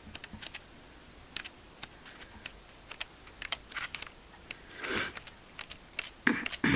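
Soft scattered clicks and rustles of paper craft supplies being handled, with a louder rustle about five seconds in and another near the end.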